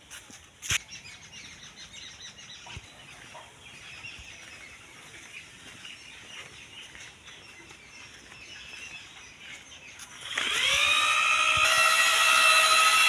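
Birds chirping faintly. About ten seconds in, a loud whine starts, rises quickly in pitch and then holds steady.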